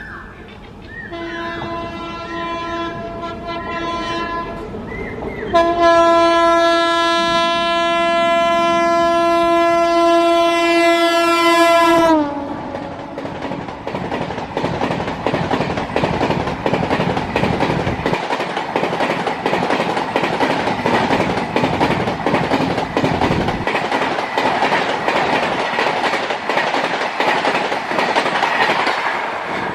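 A high-speed Indian Railways express train's locomotive horn sounding in a series of short honks, then held for about six seconds and dropping in pitch as the locomotive passes close by. The coaches follow, rushing past with a dense rattle of wheels over the rail joints.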